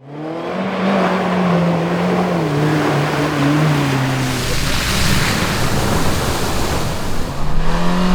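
Off-road 4x4 engine revving and wavering in pitch. About four seconds in it gives way to a dense rushing burst with a heavy low rumble, and the engine note climbs again near the end.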